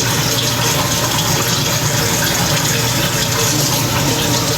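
Kitchen faucet running steadily, water splashing as a mayonnaise-coated measuring cup is rinsed out under it.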